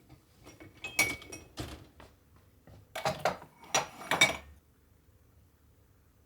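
Dishes or kitchenware being handled: a series of clinks and knocks, one about a second in with a brief ring, then a cluster of louder ones between three and four and a half seconds.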